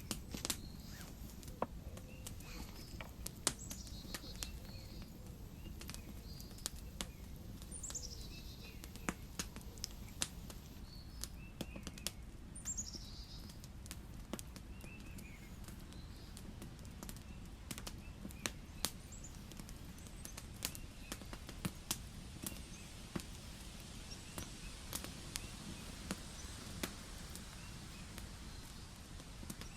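Wood campfire crackling, with irregular sharp pops and clicks throughout. A few short descending bird chirps come through, the clearest about a third of the way in and near the middle.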